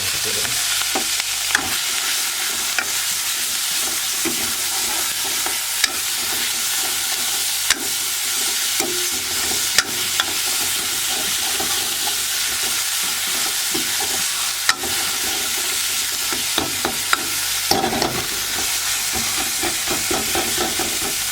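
Hot oil sizzling steadily in a frying pan as food is stirred and fried, with sharp clicks of a spoon against the pan now and then.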